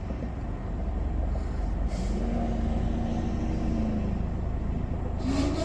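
Vehicle engine idling with a steady low rumble, with two short hisses, one about two seconds in and one near the end.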